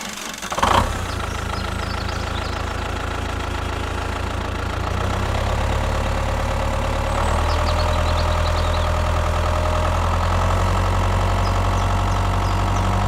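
An engine running steadily at idle, getting louder in two steps about five and seven seconds in. There is a short, loud sound just under a second in.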